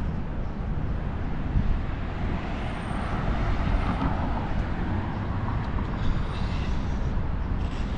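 City street traffic: steady road noise, with a vehicle passing about halfway through.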